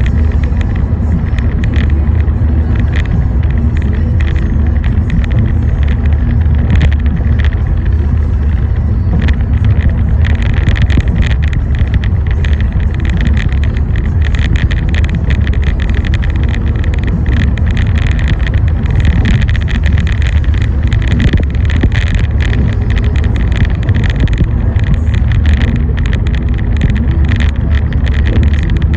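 Car driving, a steady low rumble of road and engine noise, with many short crackles and ticks above it.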